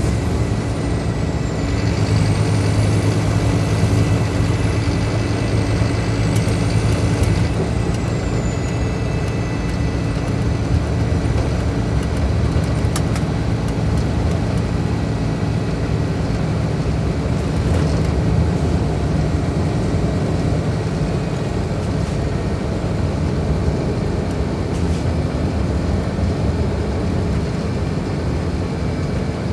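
Scania K310IB bus's rear-mounted diesel engine running steadily. A high whine falls, rises, then falls again over the first several seconds before sliding lower and fading.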